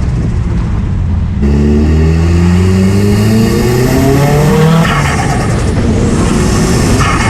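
Straight-piped Nissan S15 200SX's turbocharged SR20 four-cylinder engine and exhaust. It runs steadily, then about a second and a half in the engine note jumps louder and climbs in pitch for about three seconds under acceleration. The note falls away as the throttle lifts, then runs steadily again.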